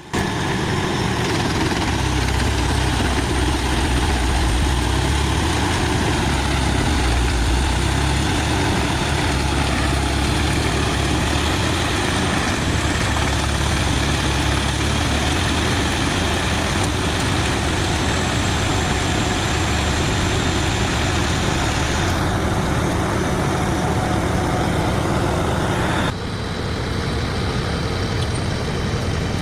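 Pezzolato PTH 1400/1000M diesel-powered mobile drum chipper running loud and steady, its engine and 1000 mm drum making a dense mechanical din. The sound shifts abruptly twice in the last third, ending slightly quieter.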